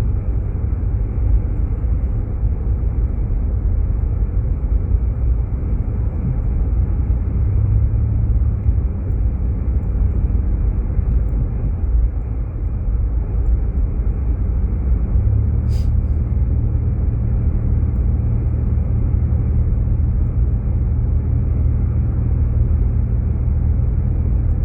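Jeep Grand Cherokee driving, its steady low engine and road rumble heard from inside the cabin. A single short click comes about sixteen seconds in.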